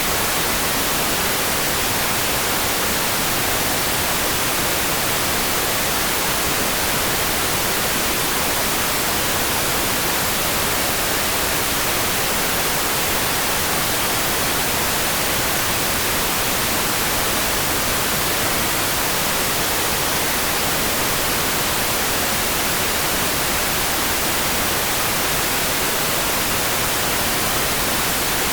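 Steady, unchanging hiss of rain noise for sleep, strongest in the treble, with no separate drops, thunder or other events standing out.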